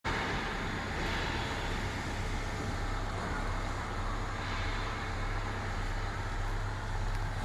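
Isuzu sewer cleaning truck's engine running steadily, a constant low hum under an even mechanical noise.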